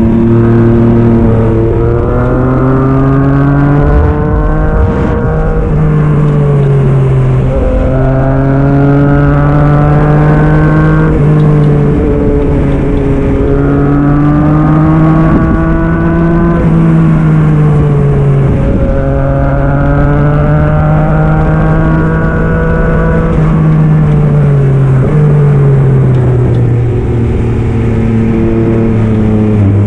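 Yamaha MT-09 SP's three-cylinder engine through an aftermarket Black Widow exhaust, under way. The engine pitch climbs under throttle and drops back several times, with gear changes.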